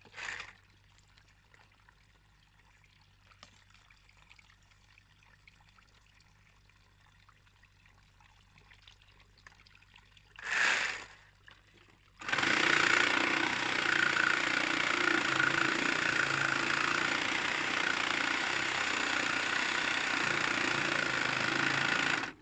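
Cordless power tool running steadily while cutting a drain pipe, after a brief start about ten seconds in; it cuts off suddenly near the end as its battery runs flat.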